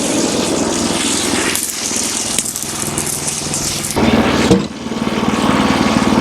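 Wood-Mizer LX25 sawmill's engine running steadily. It gets louder and its note shifts about four seconds in.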